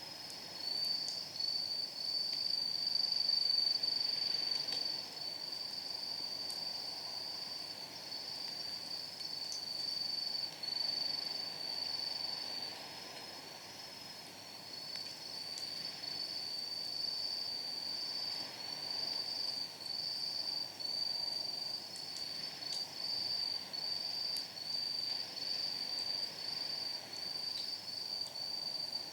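Night insects chirping in a continuous high, pulsing trill over the soft crackle of a wood campfire, with a few faint pops of burning firewood.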